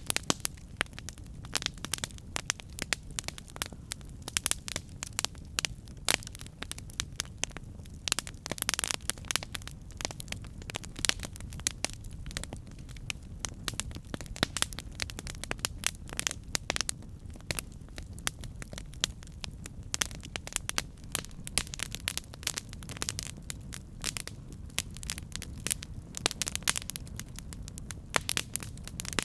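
Campfire burning with constant irregular crackling and popping of the wood over a steady low rush of the flames.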